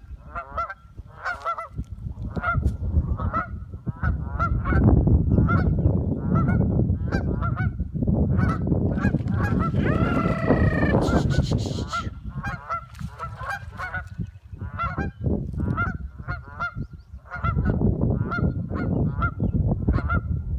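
A flock of geese honking over and over, many short calls in quick succession, over a loud low rushing noise in the middle and again near the end.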